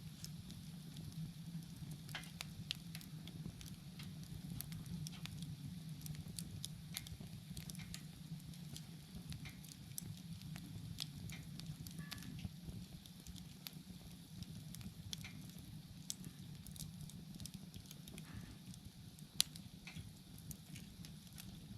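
Wood bonfire crackling, with irregular small pops and snaps throughout and one louder pop near the end, over a low steady rumble of the flames. Insects trill faintly and steadily behind it.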